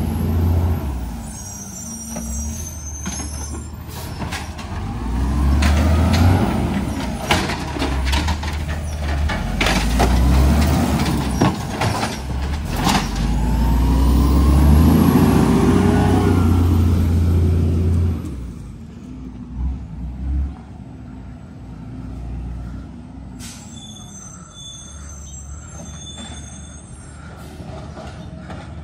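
Garbage truck's diesel engine revving up and down over and over while it works, with repeated metal clanks and bangs and hissing air. About eighteen seconds in, the revving and banging stop and the truck settles to a quieter idle.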